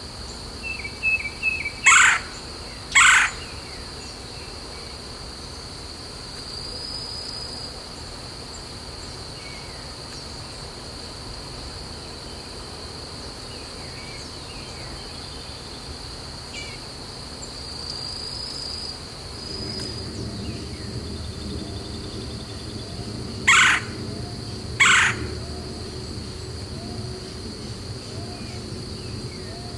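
Steady high-pitched insect drone, with two pairs of loud, short, harsh bird calls, one pair near the start and one a few seconds before the end. A low background rumble comes up past the middle.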